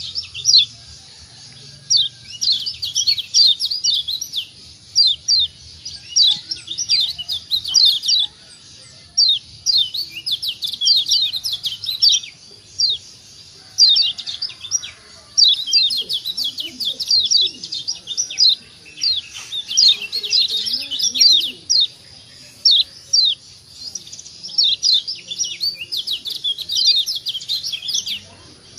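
Kecial kuning white-eye (Zosterops) giving excited 'ciak ciak' chattering calls: quick runs of short, high, falling chirps, one run after another with brief pauses.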